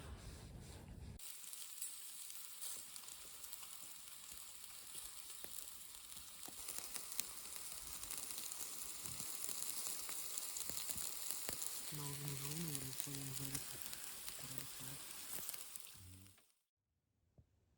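Meat sizzling as it cooks over a wood fire: a steady high hiss dotted with small crackles. It begins abruptly about a second in and cuts off abruptly near the end.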